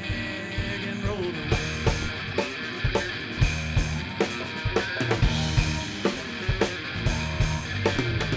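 A live rock band playing: guitar chords ring on, then the drum kit comes in about a second and a half in, with a steady kick-drum beat under cymbals, bass and guitar.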